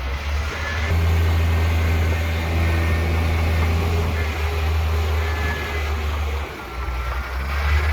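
Diesel engine of heavy earthmoving machinery running steadily with a deep hum. It picks up about a second in and eases off briefly near the end. Faint high squeals slide in pitch now and then.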